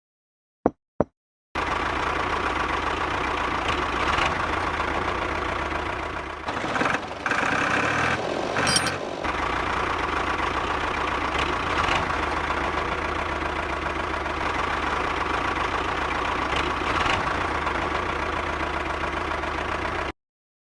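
Two sharp knocks, then a tractor engine comes on abruptly and runs steadily at idle. Its sound dips and changes briefly a few seconds later, and it cuts off suddenly near the end.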